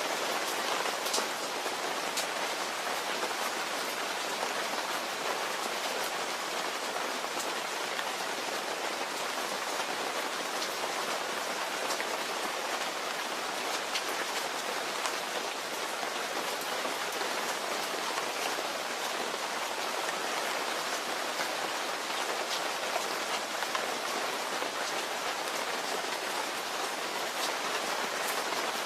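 Steady rain falling and pattering on a surface, with individual drops ticking faintly over an even hiss.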